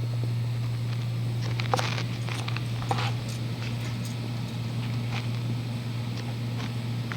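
A steady low hum runs throughout, overlaid by a few footsteps and scuffs on a hard floor, the sharpest about two and three seconds in.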